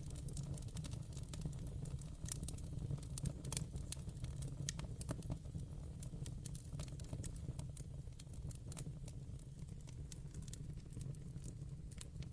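Fire crackling in a fireplace: irregular sharp pops and snaps over a steady low rumble of burning.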